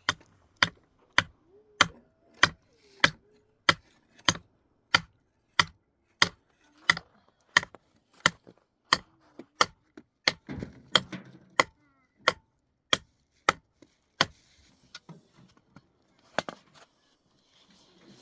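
Steady pounding with a hand tool: about twenty-three sharp, hard blows at an even pace of roughly one every 0.6 s, then a pause and a couple of scattered blows near the end.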